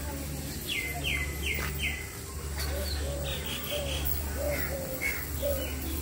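Several birds calling: four quick high chirps, each falling in pitch, about a second in, then a short buzzy trill. A run of low, short repeated notes follows through the second half, over a steady low hum.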